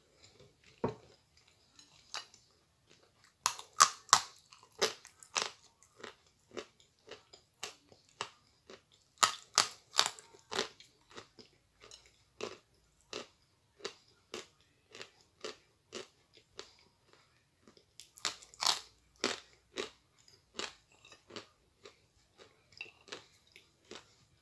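Close-up crunching and chewing of a hard, chalky white bite: a long run of crunches at about one to two a second, with three louder bursts of crunching. A dull knock about a second in, as a glass is set down.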